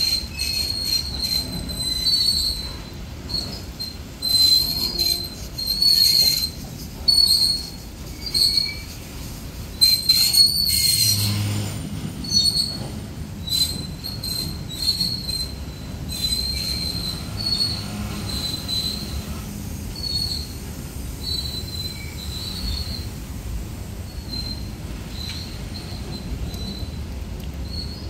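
Freight train wagon wheels squealing in short repeated high-pitched bursts as they pass over the curved diversion, over a steady low rolling rumble. The squeals come thickest and loudest about ten seconds in, then grow sparser.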